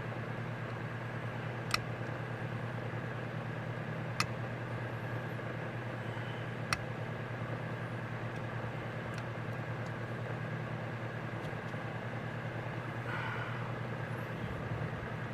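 A steady low machine hum with a few even overtones, and three sharp clicks about two and a half seconds apart in the first half.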